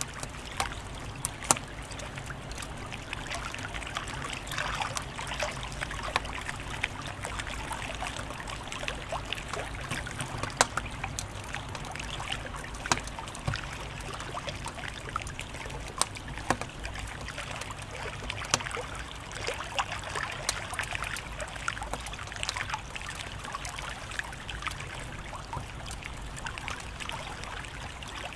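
Wood fire crackling: a steady hiss with irregular sharp pops and snaps scattered throughout.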